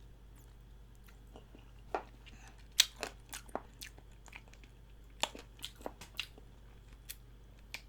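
Close-up chewing of chicken feet, with a series of sharp, separate crunches as the teeth bite down on bone and cartilage.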